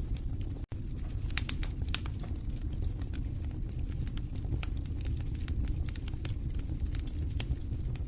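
Wood fire in a fireplace crackling: frequent sharp pops and snaps over a steady low rumble of the flames. The sound cuts out for an instant just under a second in.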